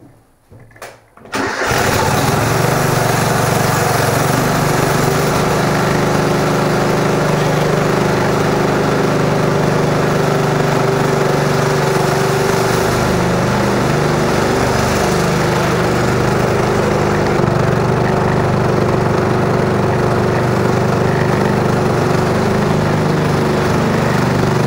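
Craftsman lawn tractor engine running loud and steady at a constant speed. It comes in abruptly about a second in.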